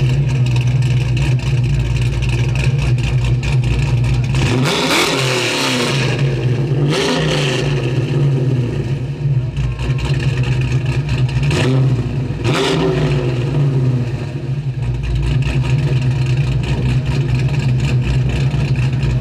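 Car engine running steadily, revved up and falling back a few times, about five, seven and twelve seconds in.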